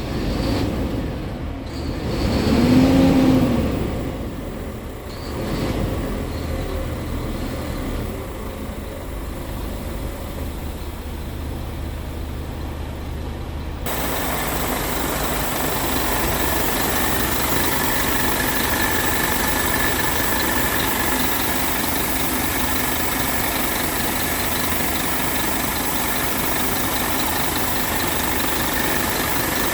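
Scania P truck's diesel engine running, with one brief rev that rises and falls a couple of seconds in. About halfway through the sound changes suddenly to a louder, hissier steady running noise with a faint high whine.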